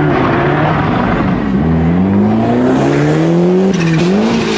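A sprint car's engine under hard acceleration, its note climbing and dropping briefly at gear changes about a second and a half in and again about four seconds in. The pitch falls away near the end.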